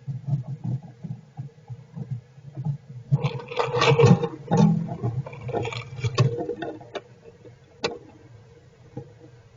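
Squirrels shifting about in a wooden nest box, with rustling and scratching in their bedding and dull knocks against the box. The rustling is loudest in the middle, and there is one sharp tap near the end.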